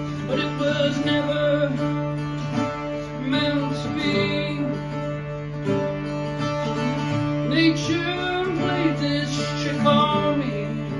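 Acoustic guitar playing an instrumental passage of a folk song over a steady low drone note, with a wavering melody line above it.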